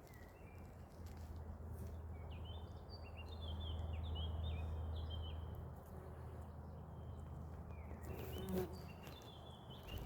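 Small birds chirping: a quick run of short, sliding chirps about two seconds in, and a few more near the end, over a steady low rumble.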